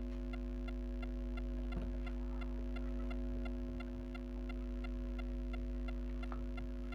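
Steady electrical hum at several fixed pitches, with a faint, regular ticking about three times a second.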